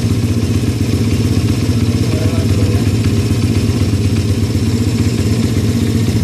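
Single-cylinder 140cc pit bike engine running steadily at a low, even speed.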